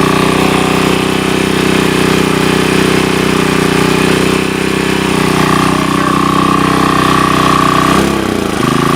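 Sportsman GEN2000 portable generator's small engine running steadily after a carburetor replacement, its speed dipping briefly and recovering near the end.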